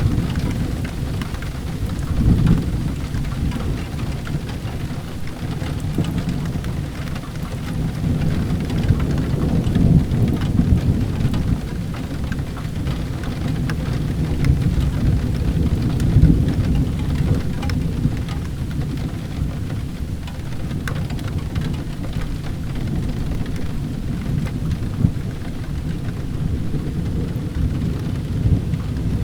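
Steady rain with a continuous deep rumble of thunder that swells louder now and then, and scattered small ticks of drops.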